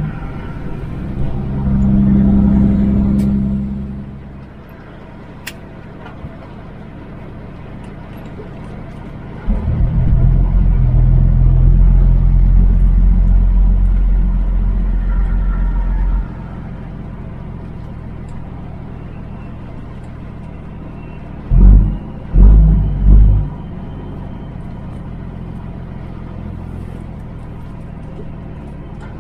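Kenworth W900 semi truck running down the highway, heard from inside the cab: a steady low engine drone with road noise. It grows louder for several seconds about a third of the way in, then drops back. A few heavy low thumps come about three-quarters of the way through.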